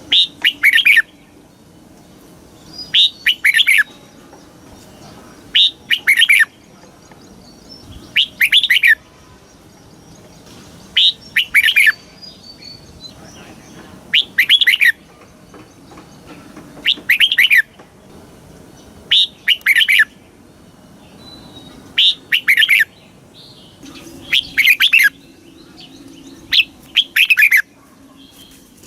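Red-whiskered bulbul singing: short, loud, rapid warbled phrases of about a second each, repeated about every two to three seconds, with quiet gaps between.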